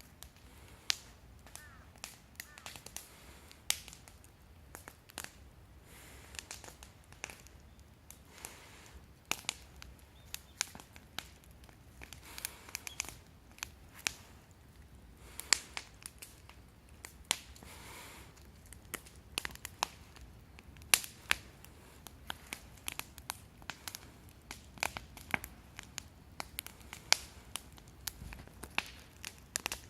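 Wood fire crackling, with irregular sharp snaps and pops and a couple of brief soft swells of rushing flame noise.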